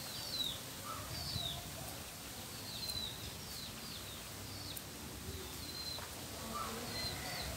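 Small birds chirping: about a dozen short, high, down-slurred notes, irregularly spaced, over a steady low outdoor background noise.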